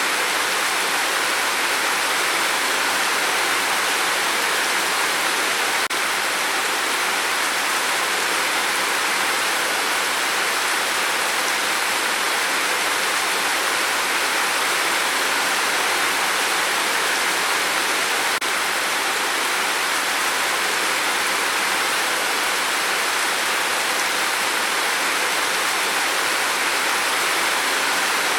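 Steady rain on a tin roof: a dense, even hiss of falling water.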